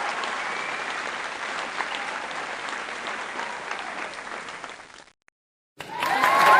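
Crowd applauding, the clapping gradually fading away before cutting to silence about five seconds in. A new, louder round of applause starts up near the end.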